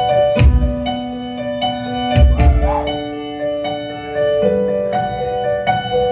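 Live band music: a keyboard plays a figure of evenly repeated notes over held bass notes, with two heavy low thumps about half a second and two seconds in.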